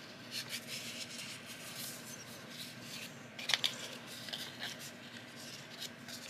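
Paper being fan-folded and creased by hand: soft rubbing and scraping strokes, with one sharper crackle about three and a half seconds in.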